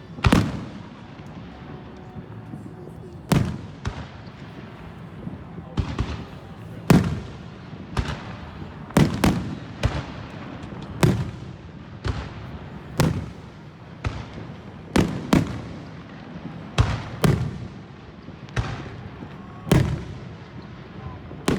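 Fireworks going off one after another: about fifteen sharp bangs, roughly one every one to two seconds, each followed by a short fading tail.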